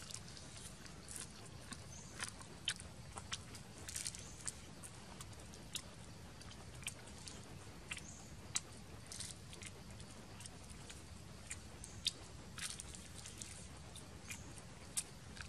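Close-up biting and chewing of grilled water snake, with irregular sharp crunches and snaps as the meat and small bones are bitten and pulled apart.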